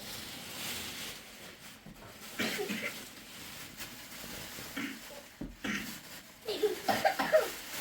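People talking in low voices, in short phrases, over a steady background hiss; the loudest speech comes near the end.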